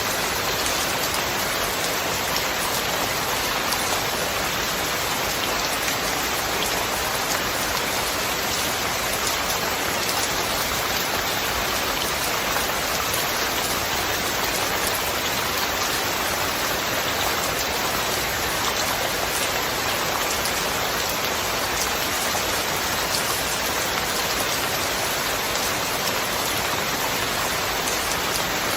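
Steady rain falling: an even hiss with scattered ticks of individual drops, no thunder.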